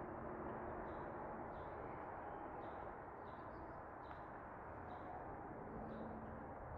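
Outdoor park ambience: a steady low rush, with a bird repeating a short high chirp about once a second.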